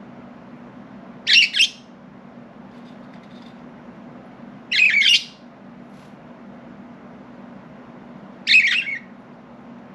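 Budgerigar giving three short, harsh squawking calls a few seconds apart, the first a quick double call, over a steady low hum.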